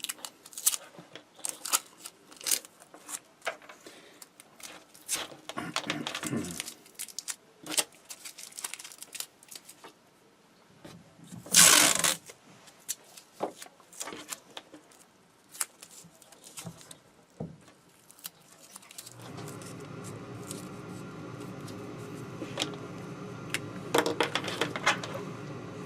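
Clicks, taps and rustles of small plastic parts and cables being handled, with one louder rustle about halfway through. About two-thirds of the way in, a steady electrical hum starts and continues under the handling.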